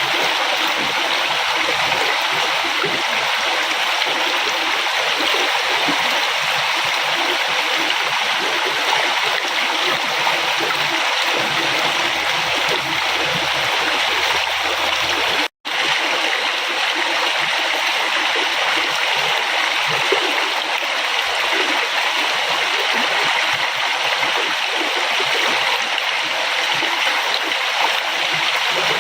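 River water flowing in a steady rush, broken once by a split-second dropout about halfway through.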